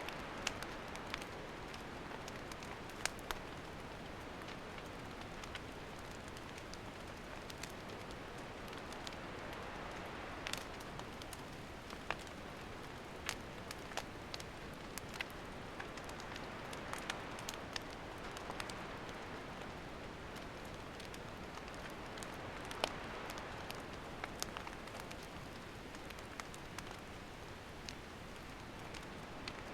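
Wood campfire burning: a steady soft hiss with irregular sharp crackles and pops from the burning wood.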